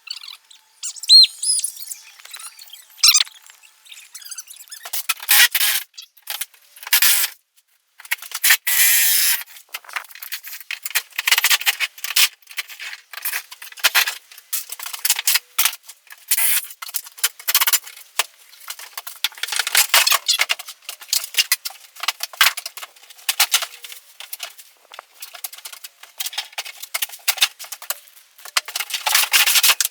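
A few high squeaks, then from about five seconds in a long, irregular run of cracking, scraping and tearing noises from a bathtub surround being pried off and torn out.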